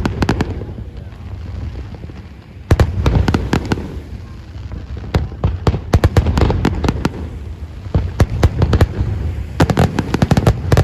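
Aerial fireworks display: rapid volleys of sharp bangs and crackles over a low rumble, coming in dense flurries, the heaviest starting about a quarter of the way in, with another flurry near the end.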